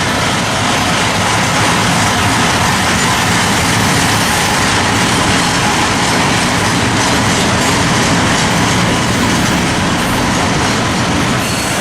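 Freight train rolling past, a loud, steady rumble and clatter of wheels on rail.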